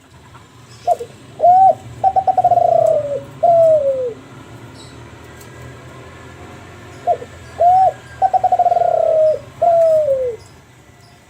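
Kelantan spotted dove (derkuku) cooing two full song phrases, about six seconds apart. Each phrase is a short note, then a rising-and-falling coo, then a quick run of stuttered notes, and ends with a long falling coo.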